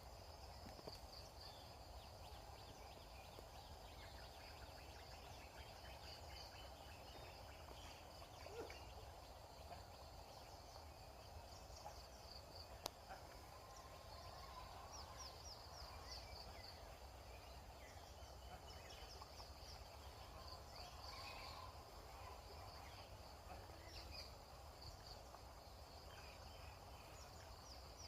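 Faint outdoor ambience: a steady high insect trill with scattered bird chirps and calls over a low rumble.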